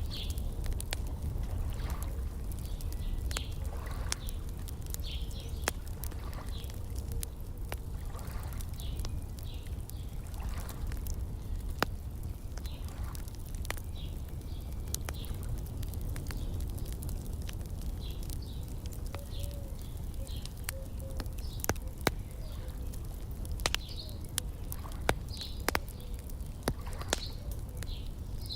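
Wood fire crackling, with sharp pops at irregular intervals over a steady low rumble, while small birds chirp in short calls every second or two.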